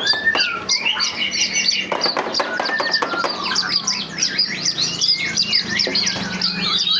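Many small birds chirping and squawking at once, a dense chorus of quick, overlapping high chirps and short whistles with no pause.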